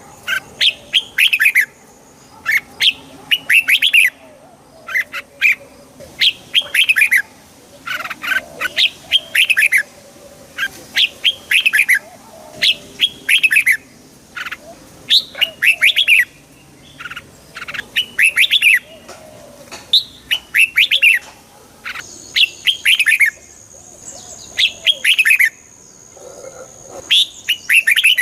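Red-whiskered bulbul singing: short, bright phrases of quick chirping notes, repeated about every second or two.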